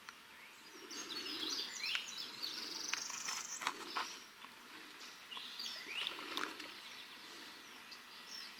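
Songbirds singing and chirping outdoors in short bursts of quick, high twittering, over faint background noise, with a few short clicks.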